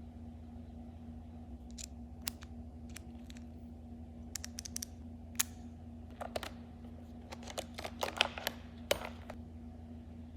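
A scattered series of light, sharp clicks and taps from small hard objects being handled, thickest in the second half, over a steady low hum.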